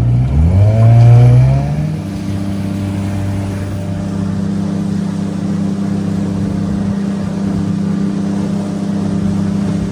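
1964 Evinrude 9.5 hp two-stroke twin outboard motor revving up as the throttle opens, its pitch rising over the first two seconds, then running steadily at speed. It is running smoothly, as it should, its fuel filter freshly cleaned.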